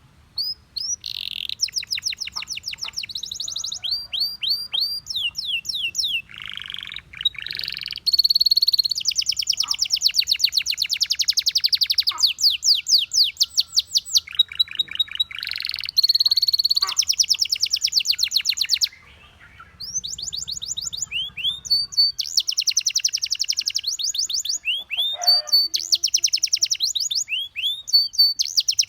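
Domestic canary singing: phrases of fast repeated high chirps and rolling trills follow one another, with a brief pause about two-thirds of the way through.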